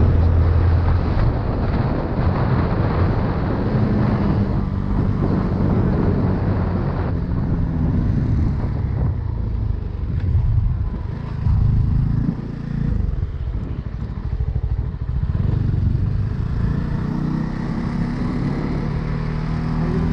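CFMoto 250CL-X single-cylinder engine running under way, its note rising and falling as the throttle is worked, with wind noise on the microphone.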